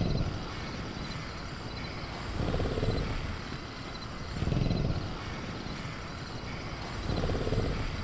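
Designed velociraptor creature sound effect: three low, rasping growls, each under a second long, at roughly two-second gaps. Underneath is a steady low jungle ambience with faint crickets.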